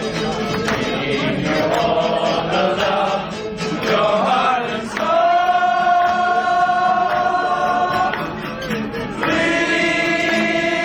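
A group of voices singing together in chorus, with long held notes in the second half.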